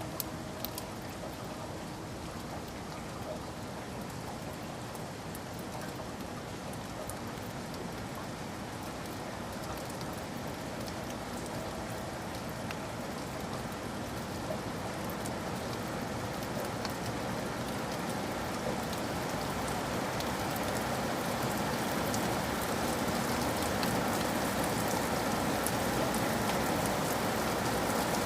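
Steady rain pattering, growing gradually louder over the stretch.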